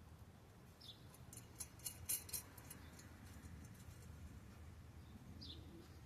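Light clicks of steel bolts and nuts being handled and fitted onto a lawn mower's power-rake blade, in a cluster between about one and a half and two and a half seconds in. Two short, high, falling chirps come about a second in and again near the end.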